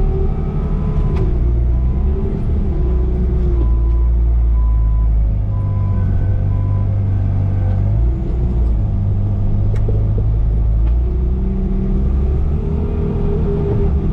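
Vehicle engine running as it is driven and manoeuvred, its pitch rising and falling with load. A faint, evenly repeated beep sounds for a few seconds about two seconds in.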